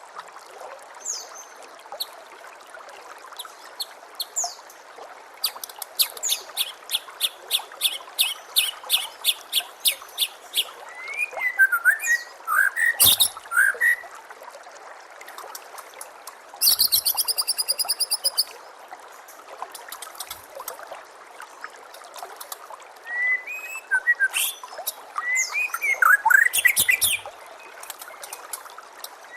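White-rumped shama singing, with a fast run of sharp repeated notes, whistled gliding phrases and a short buzzy trill, over the steady sound of trickling water.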